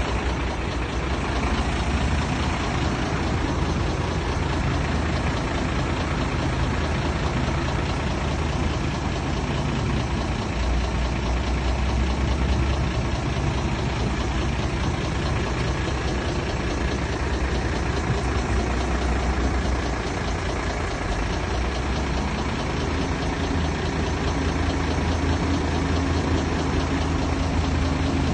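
Heavy diesel engine of earth-moving equipment running steadily, its low hum shifting pitch a few times as the engine speed changes.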